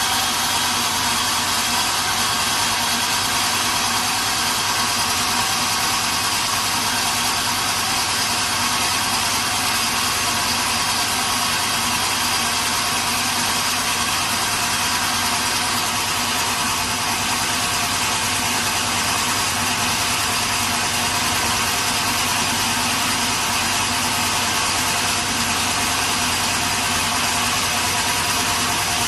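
Sawmill machinery running steadily, a continuous motor drone with a few held tones over heavy noise that does not change.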